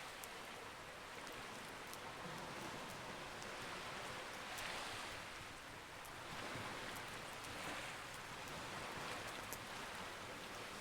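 Campfire crackling: scattered small sharp pops over a steady rushing hiss that swells and fades every second or two.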